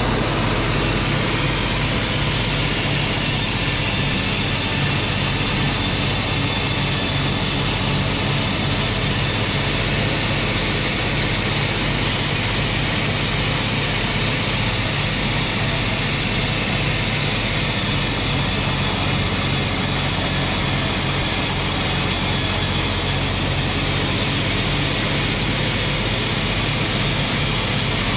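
Wood-processing machinery running steadily: a constant engine-like drone under a broad hiss, with no let-up or change in level.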